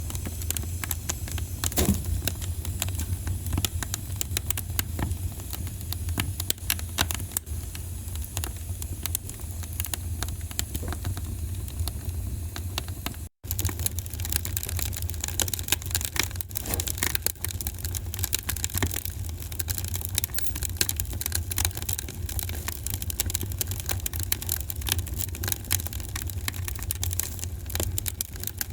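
Wood fire crackling, with many irregular sharp pops and snaps over a steady low rumble of burning. The sound cuts out for a split second about halfway through, then carries on.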